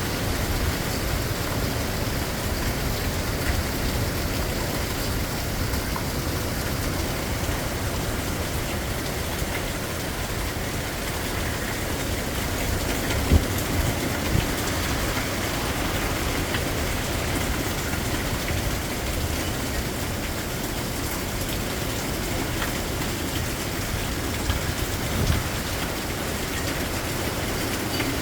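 Storm wind blowing hard with wind-driven rain, a steady heavy rushing noise with a deep low rumble. Two short sharp knocks about halfway through and another near the end.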